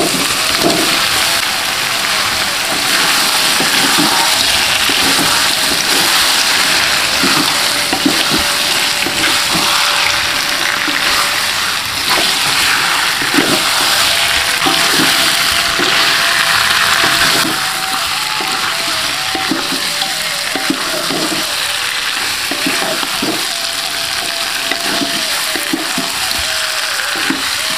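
Whole shrimp sizzling and frying in spice paste in a metal wok, with a burst of sizzle as they go in at the start. A wooden spatula scrapes and knocks against the wok as the shrimp are stirred.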